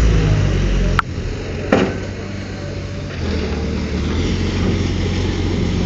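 Heavy earthmoving machine's diesel engine running with a steady low rumble, with two sharp knocks about a second in and again just under a second later.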